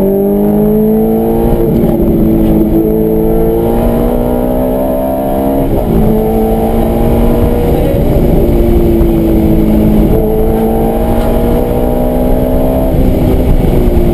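Ferrari F430's 4.3-litre flat-plane V8 through a Tubi exhaust with catalytic-converter bypass, heard from inside the cabin, pulling hard. Its pitch climbs steadily and then drops back sharply about five times as it shifts through the gears.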